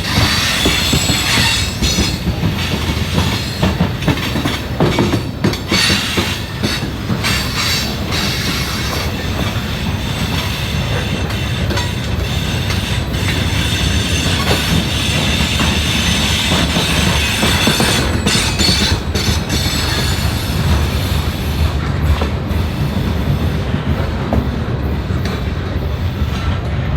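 A train's cars rolling past close by, the wheels clacking over rail joints, with some squeal from the wheels at times.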